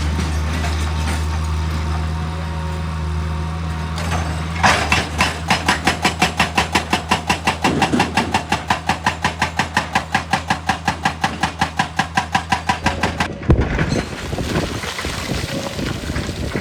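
Heavy diesel machine engine running steadily, then a percussive hammer pounding rock at about five blows a second for some nine seconds, stopping with one loud knock.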